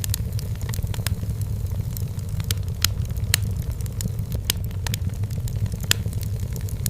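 Wood fire burning in a fireplace: irregular sharp crackles and pops over a steady low rumble, with a few louder pops about three and six seconds in.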